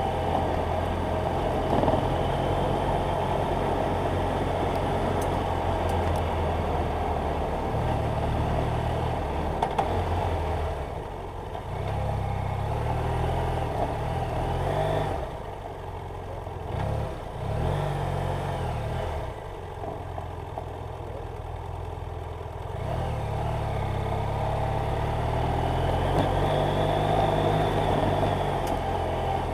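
BMW F800GS Adventure's parallel-twin engine running while riding, its revs rising and falling with throttle and gear changes, easing off and quieter through the middle stretch before pulling again near the end, over a steady rush of wind and road noise.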